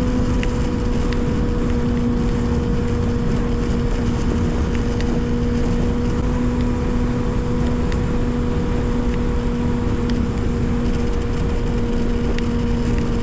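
Kawasaki ZX-6R inline-four sport bike engine running at steady, unchanging revs while cruising, with heavy wind buffeting on the helmet mic.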